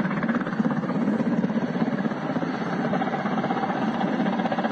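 Mi-26 heavy-lift helicopter's rotors and turbine engines running steadily, a dense fast chopping noise.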